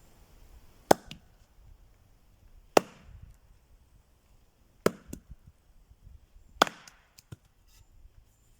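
Axe striking firewood four times, about two seconds apart, each sharp blow followed by a few smaller knocks: the wood is being split with an axe held one-handed.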